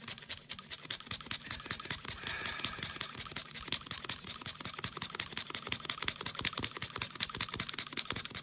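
Fast, irregular clicking and crackling from hand work on a computer power-supply fan while old oil is cleared out of its bearing. It stops abruptly near the end.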